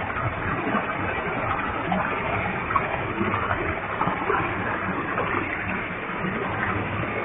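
Waterfall with a heavy flow of water pouring and splashing, a steady full rushing noise.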